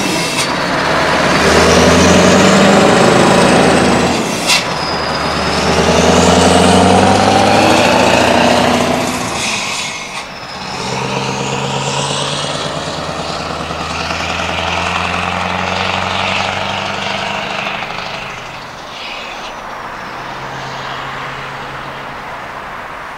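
Scania R500 V8 truck with straight exhaust stacks pulling away through the gears: the engine note climbs and drops back at each of two shifts, with a rising whistle and a sharp hiss at the first shift, then runs steadier and fades as it drives off.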